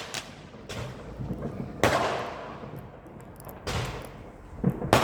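Distant fireworks going off: a sharp bang about two seconds in and more bangs near the end, each dying away in a long rolling echo.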